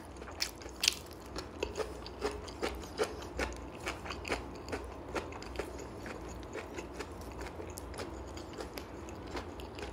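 Mouth chewing crunchy grilled food: a steady run of small crunching clicks, about two or three a second, growing softer in the second half.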